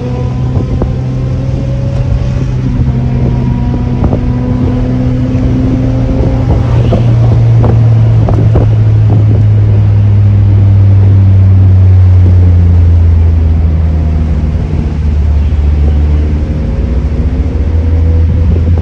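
Car engine and exhaust running at steady revs, the pitch slowly dropping through the second half, with a few sharp clicks near the middle.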